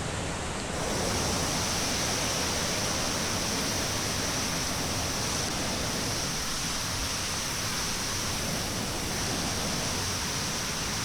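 Steady, dense rush of water falling at Glen Ellis Falls on the Ellis River, growing a little louder and brighter about a second in.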